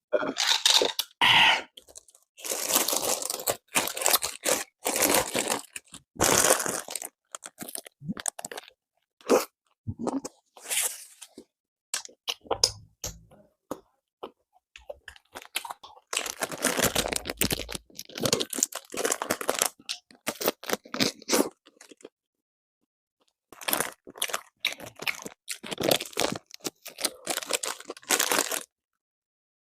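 Close-up eating of a crusty bánh mì: the baguette crust crackling and crunching in repeated bouts of bites and chewing, with short pauses between.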